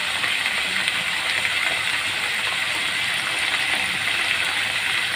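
Banana stem pieces, green chillies and fresh curry leaves sizzling steadily in oil in a steel kadai on a low flame.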